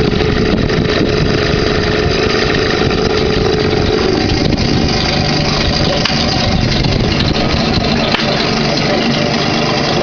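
1992 Yamaha 3 hp two-stroke outboard motor running steadily.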